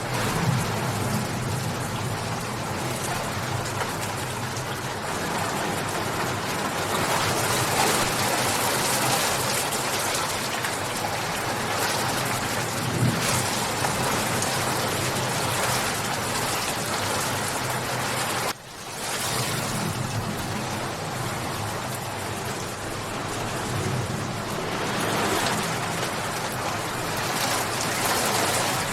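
Steady rain falling and pattering on surfaces, a continuous dense hiss. About two-thirds of the way through it briefly drops out and swells back in.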